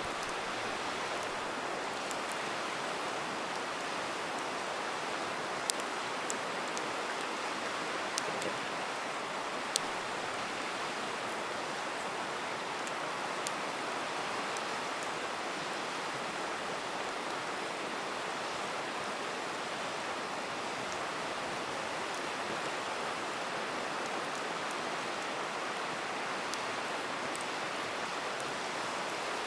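River water rushing steadily, with a few sharp pops and crackles from a campfire at scattered moments.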